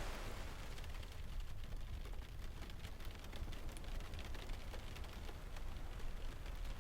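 Steady rain ambience: an even hiss of rain with many small scattered ticks and a constant low rumble underneath.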